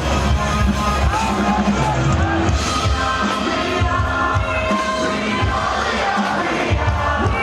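Live band music played loud over a stadium sound system, with a lead voice singing over drums and bass and a crowd singing and cheering along.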